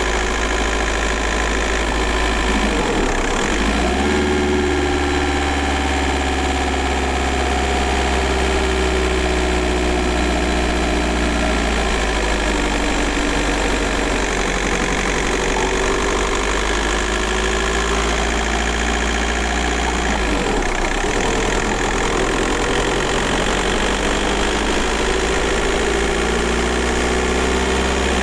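Volkswagen Golf Mk4 4motion's 1.9 TDI four-cylinder turbodiesel pulling while driving, its note slowly rising and falling. The pitch drops at gear changes about three seconds in and again about twenty seconds in.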